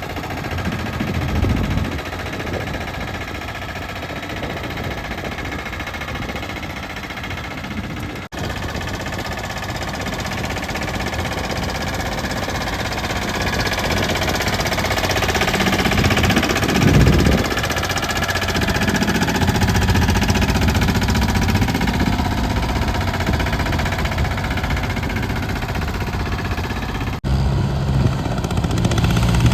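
Mini tractor's diesel engine running steadily under load, growing louder through the middle. The sound breaks off abruptly and picks up again about eight seconds in and again near the end, where separate shots are joined.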